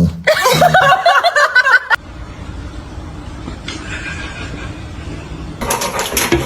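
A person laughing for about two seconds. It cuts off abruptly to a steady low background noise, and near the end a run of sharp clicks and knocks comes in.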